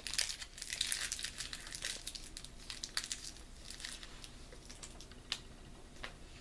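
Candy wrapper crinkling as it is handled, a dense run of crackles for the first couple of seconds, then only scattered crackles.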